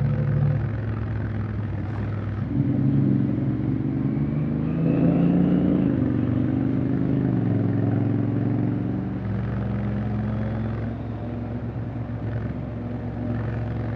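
Honda X-ADV 750's parallel-twin engine under way. The revs rise about two and a half seconds in, climb and fall back a couple of times, then settle to a steadier, lower note after about nine seconds.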